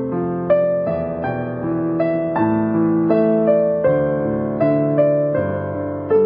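Background piano music: slow, gentle notes struck about every three quarters of a second, each ringing and fading before the next.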